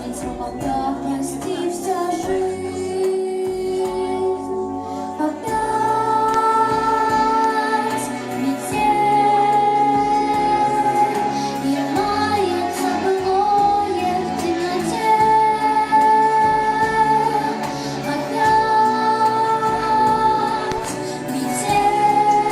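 Music: a girl singing a pop ballad, holding long high notes over a backing track.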